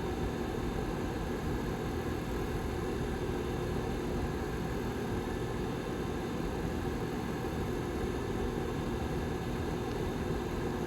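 Rear fan of a Lasko 755320 tower heater running steadily: an even rushing whir with a low hum of a few steady tones in it.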